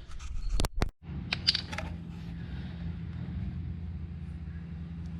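A few handling knocks and a brief break in the recording, then a steady low mechanical hum with some light clicks of parts being handled.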